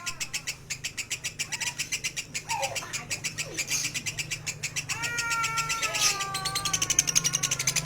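A bird's rapid chattering call: an even train of high, clicking notes, about ten a second, growing louder toward the end. About five seconds in, a long, slowly falling, wavering call joins it.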